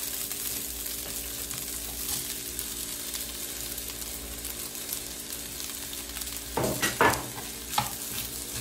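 Fried rice sizzling in a frying pan over a gas burner, an even hiss with a steady hum beneath. Near the end a metal spatula scrapes and clanks against the pan a few times as petai beans are stirred into the rice.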